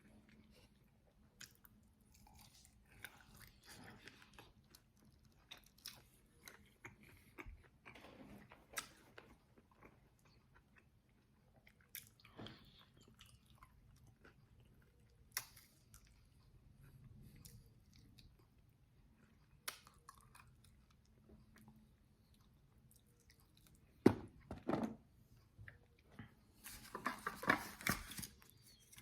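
Close-up chewing and biting into crisp, extra-well-done fried chicken wings: soft chewing broken by sharp crunches and clicks. The crunching is loudest and densest near the end.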